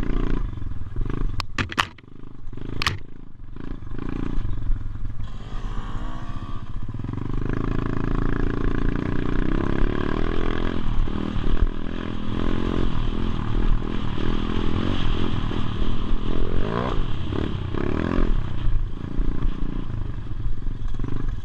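Motorbike engine running and being revved, its pitch rising and falling several times. A few sharp clicks come near the start.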